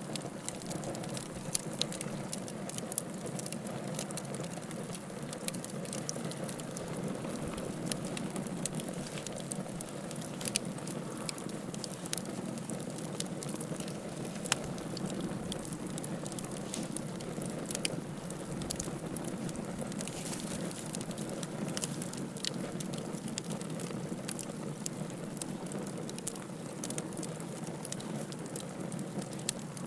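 Wood fire burning in a fireplace, the firewood crackling with many sharp pops over a steady hiss and rumble of the flames.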